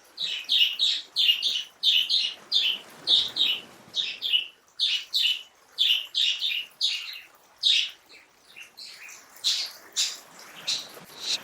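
A bird chirping: a rapid run of short, high notes, two or three a second, that thins out after about eight seconds into a few sharper, separate chirps.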